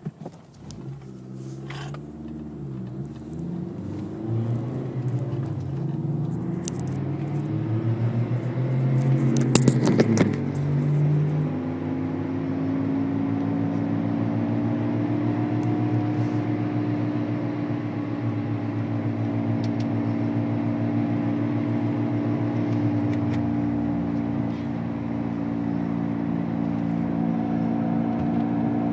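2003 Honda Civic accelerating for about ten seconds, its pitch rising, with a brief loud clatter near the top, then cruising with a steady drone. The car has a noise that gets louder and faster with road speed whatever gear it is in.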